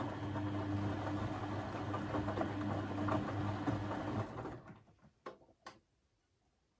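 Beko washing machine's brushed drum motor running with a steady hum, then winding down and stopping about four and a half seconds in, followed by two short clicks.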